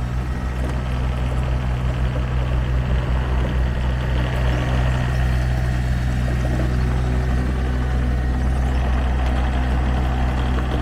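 Sany SY26U mini excavator's diesel engine running steadily at a constant speed.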